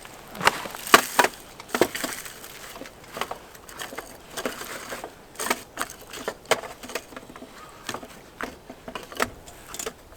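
Crackling campfire: burning wood popping and snapping in irregular sharp cracks.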